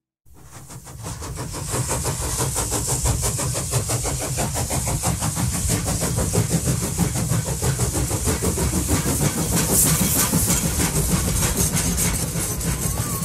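Added train sound effect: a steady rhythmic chugging with a hiss on top, fading in over the first two seconds.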